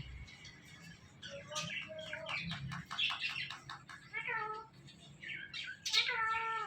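Indian ringneck parrot calling: a quick run of short chirps about two seconds in, then two drawn-out calls that bend in pitch, one near the middle and one near the end.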